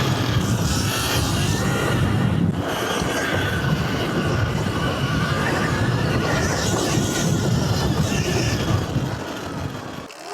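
Surron Ultra Bee electric dirt bike being ridden, its motor whine wavering up and down in pitch over a heavy rushing noise. The noise drops away briefly about two and a half seconds in and fades near the end.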